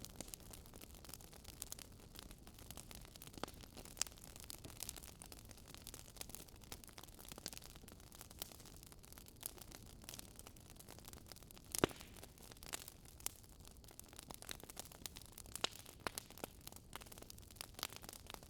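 Wood burning in a bonfire: irregular crackling and snapping over a soft hiss, with one louder pop about two-thirds of the way through.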